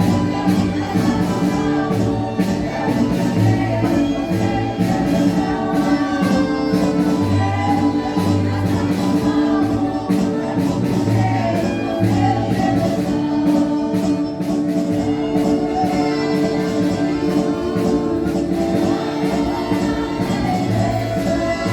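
Portuguese marcha popular performed by a marching group: many voices singing together over band accompaniment with a steady beat.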